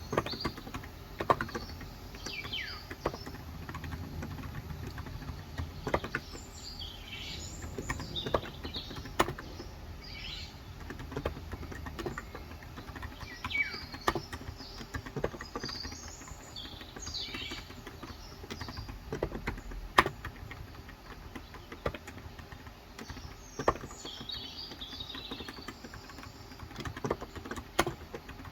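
Scattered keystrokes on a Cox Endeavor electrostatic-capacitive (non-contact) 35 g tenkeyless keyboard: single sharp clicks at uneven intervals rather than steady typing. Birds chirp in short high calls in the background.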